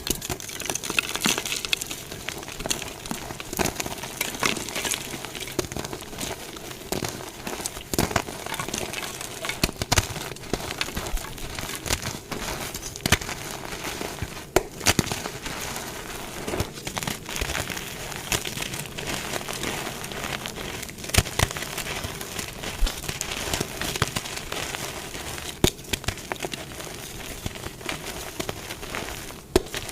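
Dyed gym chalk blocks being crushed: a continuous dry crunching and crumbling with frequent sharp cracks.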